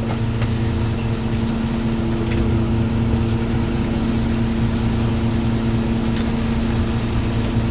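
A fishing boat's engine and deck machinery running at a steady hum, with no change in pitch or level.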